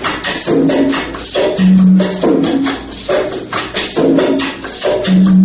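Maracas shaken in a quick, even rhythm, a crisp stroke every fraction of a second, with lower pitched notes sounding alongside.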